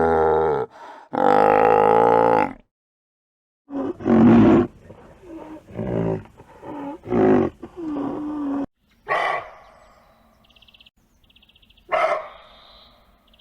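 A string of separate animal calls, each with a clear pitch: two long calls, then a run of shorter calls with bending pitch, then two sharp cries about three seconds apart.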